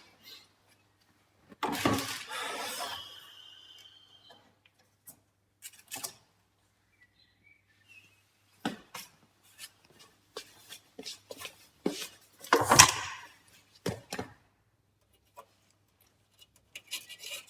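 Scattered clicks, knocks and clatter of hand tools and metal and plastic parts being handled at a VW T4 van door during window-regulator work. A louder clatter about two seconds in ends in a short ring, and another loud clatter comes about thirteen seconds in.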